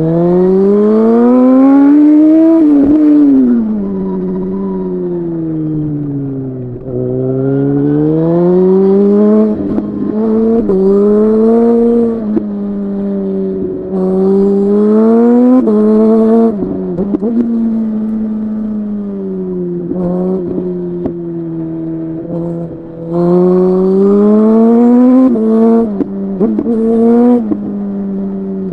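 Suzuki GSX-R 1000 inline-four engine accelerating hard, its pitch climbing and then dropping sharply at each upshift, with a longer stretch of falling pitch as it slows between bursts.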